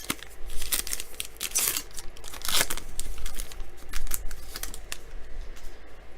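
A trading-card pack wrapper being torn open and crinkled in the hands: a run of sharp crackles and rips lasting several seconds.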